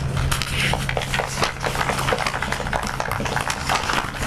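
Audience applauding: many hands clapping in a dense, irregular patter, with a steady low hum from the public-address system underneath.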